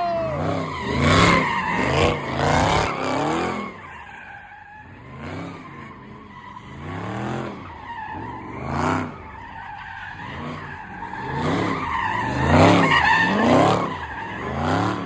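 Car engine revving hard and dropping back over and over while its tyres squeal, the sound of a car spinning its wheels in the street. There are several loud surges, the strongest near the start and toward the end.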